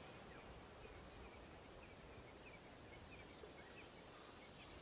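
Near silence: faint outdoor ambience with a few faint high chirps, likely small birds.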